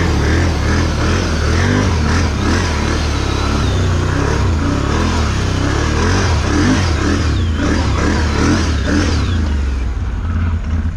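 Off-road vehicle engine revving up and down under load as it tries to get over an obstacle, easing off near the end; the machine bottoms out on it.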